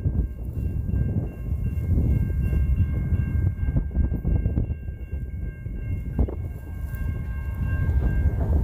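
Freight train rolling past at close range: a steady low rumble of wheels and cars, with a steady high-pitched tone running over it that fades out near the end.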